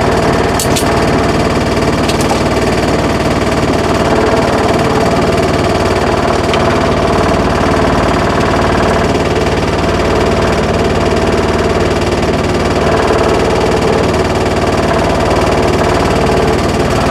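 Land Rover Series II engine idling steadily at tick over. The charging system is putting 13.1 volts into the battery, so it is charging normally.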